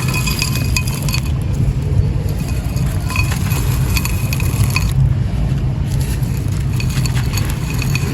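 Dry sand-and-cement clay pot crumbling, a gritty crunching dotted with many small clicks and clinks over a steady low rumble.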